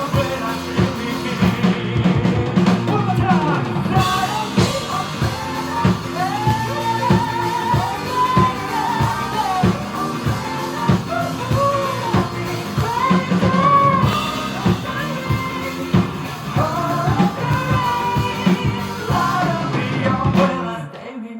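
Live pop-rock band music with a singer's voice carrying the melody over a drum kit. The drums stop just before the end as the song winds down.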